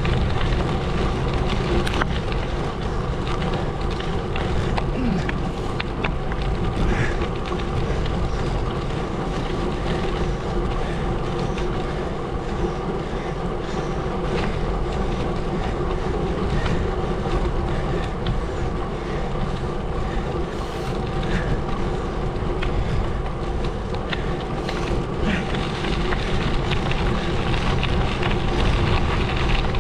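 Gravel bike rolling along a gravel road: a steady rumble of tyres on gravel with a steady hum over it and scattered faint ticks.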